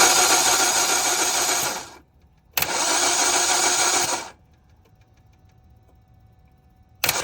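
Car engine being cranked by its starter twice, about two seconds each with a short pause between, without catching: a no-start. A different engine sound begins abruptly near the end.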